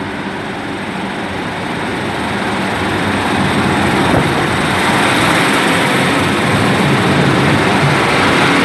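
Two coupled Class 153 single-car diesel multiple units pulling out under power, their underfloor diesel engines running hard and growing louder over the first few seconds, then holding steady as the train passes.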